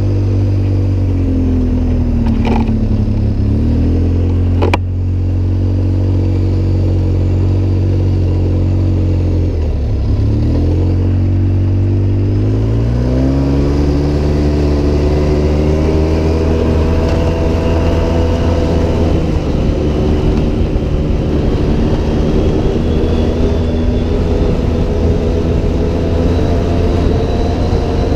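Off-road vehicle engine driving through sand dunes. The revs fall off about two seconds in, with a sharp click near five seconds. They dip again around ten seconds, then climb over the next few seconds and hold steady at a higher speed.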